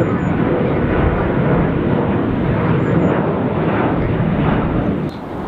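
Jet airliner's engines running: a loud, steady rushing noise that dips slightly about five seconds in.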